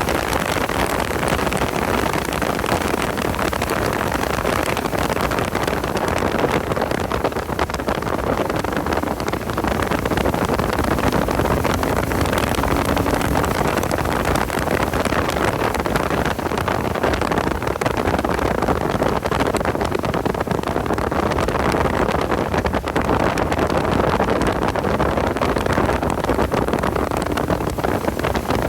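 Porsche 986 Boxster's flat-six engine running at speed on track, mixed with heavy wind and road noise in a steady din.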